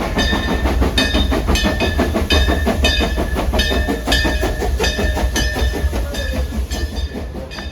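Steam train's railroad cars rolling on the track: a heavy low rumble with rapid, irregular clanking and a steady high-pitched tone over it.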